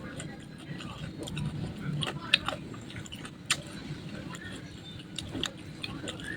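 A person chewing food with wet mouth sounds and a few sharp crunchy clicks, the loudest about two and a half and three and a half seconds in.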